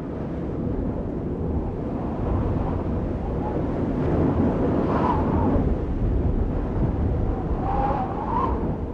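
Crowd cheering and applauding, a steady roar of noise with a couple of shouts rising above it, one about halfway through and one near the end.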